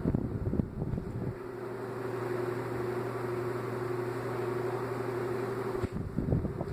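Mallory Fresh 30 cm electric fan running: a steady motor hum with a constant whine. Irregular low thumps and buffeting come in the first second or so and again near the end.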